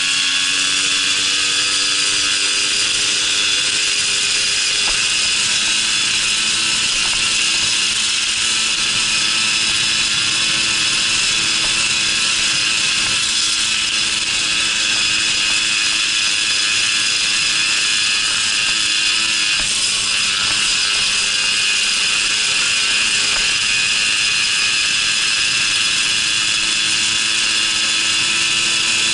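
Babetta moped's small two-stroke engine running under way at steady high revs, a high-pitched buzz; the engine note rises slightly in the first second.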